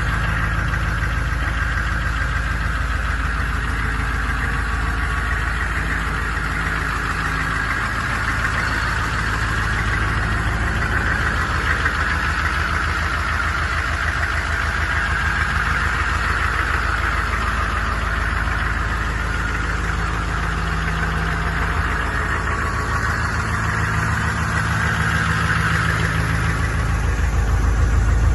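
2000 AM General Humvee's 6.5-litre diesel V8 idling steadily, getting a little louder near the end.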